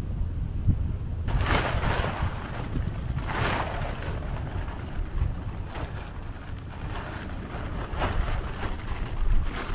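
Strong wind buffeting the microphone with a steady low rumble, while sea waves wash and break over rocks in swelling surges, the clearest about a second and a half and three and a half seconds in.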